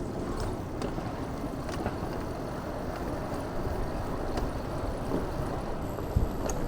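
Steady wind and road noise from a Santander hire e-bike being ridden through city traffic, heard from a mount on the bike, with a few small rattles and a single thump about six seconds in.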